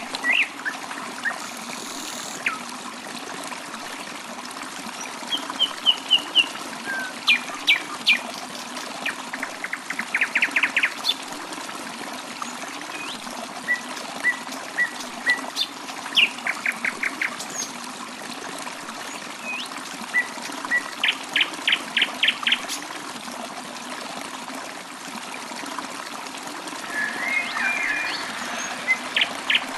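Songbirds chirping over a steady trickle of running water, with several quick runs of rapid repeated high notes every few seconds.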